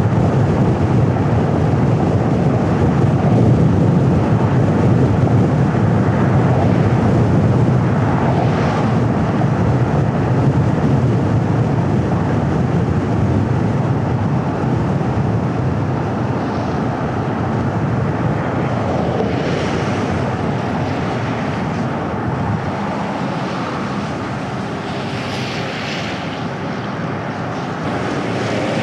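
Steady rush of road and wind noise from a car driving along a hilly road. It eases a little about two-thirds of the way through, and a few brief hisses rise above it.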